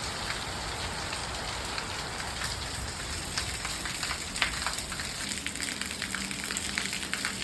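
Heavy monsoon rain falling steadily, with many sharp drips and splats on hard surfaces. A low steady hum joins about five seconds in.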